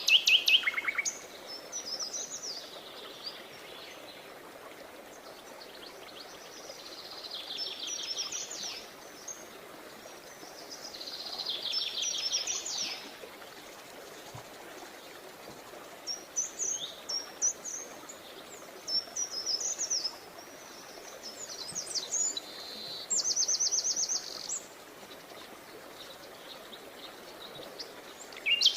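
Songbirds singing: high, fast trilled phrases of rapid repeated notes lasting a second or two, every few seconds, with short chirps between them, over a faint steady background hiss.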